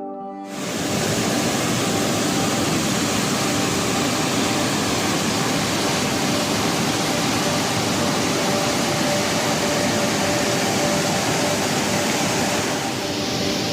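Waterfall's steady, loud rush of falling water, cutting in sharply about half a second in, its hiss thinning slightly near the end.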